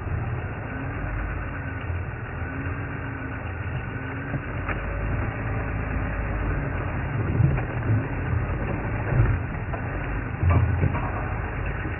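Safari vehicle's engine idling with a steady low rumble. A few louder knocks or cracks come in the second half.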